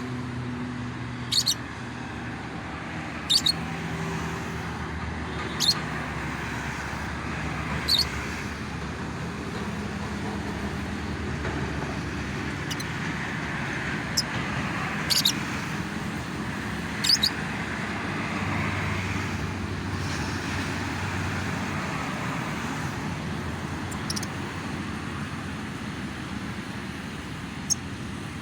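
Lovebirds giving short, shrill single chirps every second or few seconds, over steady road traffic noise.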